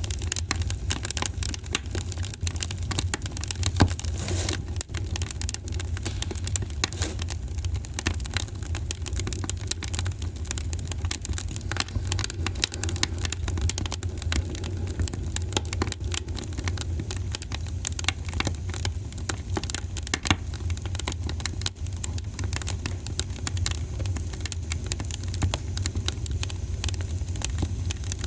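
Wood fire burning in a fireplace: a steady low rumble of flames with dense, irregular crackling and popping of the burning logs.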